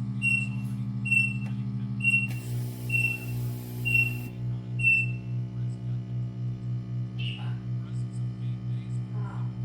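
Resin debubbler machine's vacuum pump running with a steady pulsing hum, about three pulses a second, while the resin in it bubbles over. A short high beep repeats about once a second until about five seconds in, and a burst of hiss comes between about two and four seconds in.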